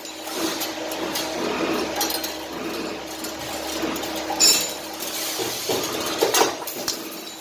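CNC 2D wire-bending machine at work: a steady motor hum under irregular metallic clinks and clicks as the wire is fed and bent, the sharpest about four and a half seconds in and again a little after six seconds.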